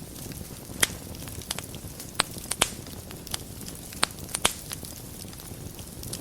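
Wood fire burning in a fireplace: a steady low rush of the flames with scattered crackles and sharp pops, a handful of them louder than the rest.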